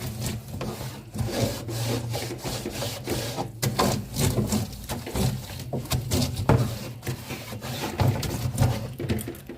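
Scrubbing and wiping the inside of a refrigerator's freezer compartment by hand: irregular rubbing strokes, under a low steady hum.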